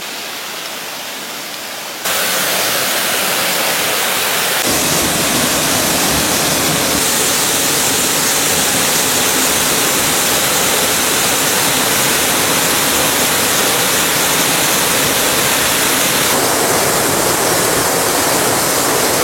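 Rushing water of a river and waterfall, a steady, loud hiss. It jumps suddenly louder about two seconds in and again about five seconds in.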